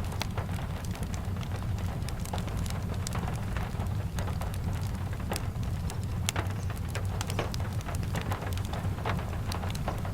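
Steady rain falling, with many scattered sharp ticks of drops and a constant low rumble underneath.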